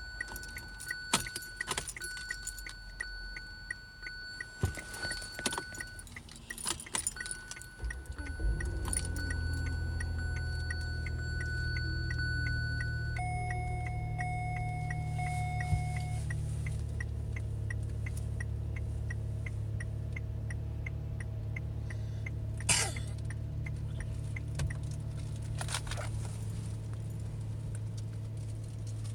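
Keys jangling and a steady electronic warning tone with regular ticking from the car, then about eight seconds in the 2017 Kia Sorento's engine starts and settles into a steady idle.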